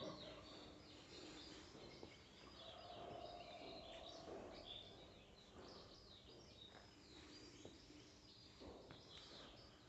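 Faint birdsong: many short chirps and twitters from several birds, over a low steady hum.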